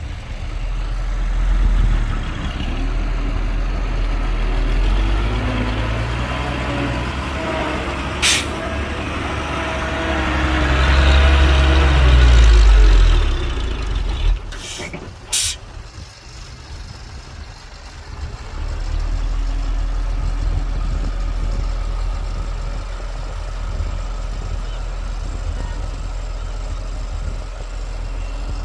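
Heavy diesel truck engine running, rising under load about halfway through, with a short sharp air-brake hiss about a third of the way in and two more in quick succession just after the engine peaks; the engine then settles to a steady lower note.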